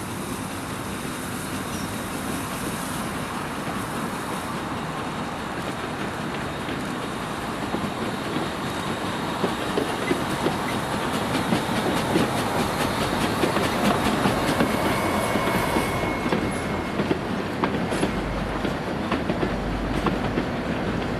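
Metre-gauge steam train, hauled by a Corpet-Louvet 040T tank locomotive, rolling along the track with its wheels clicking over the rail joints. It grows louder past the halfway point as it comes closer.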